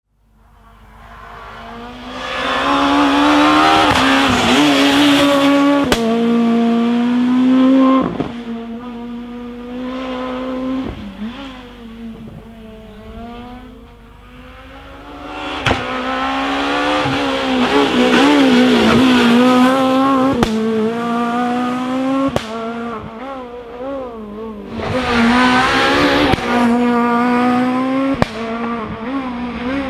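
Rally car engine at full throttle on a special stage, revving up and down through gear changes as it goes by, with several sharp pops. Loudest in three spells: about two to eight seconds in, again from about sixteen to twenty-two seconds, and briefly near twenty-six seconds.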